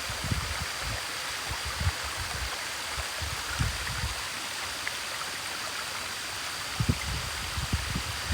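Steady rush of flowing water from a waterfall, an even hiss with occasional short low bumps and a faint steady high tone above it.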